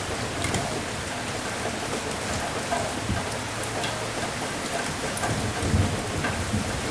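Steady rain falling on a surface, with many individual drops ticking close by. A brief low thump comes near the end.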